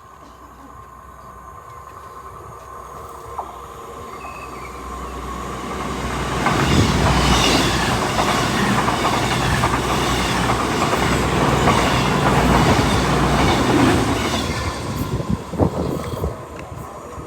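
Class 221 Voyager diesel-electric multiple unit, two units coupled, passing through a station at speed. Its rumble builds over about six seconds, stays loud with rail clatter while it passes, and fades away near the end.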